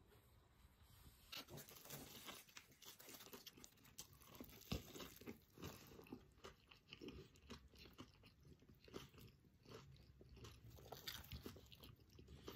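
Faint sounds of a person biting into and chewing a burger on a toasted bun with red cabbage slaw: irregular crackling bites and chews starting about a second and a half in, with one sharper crack near the middle.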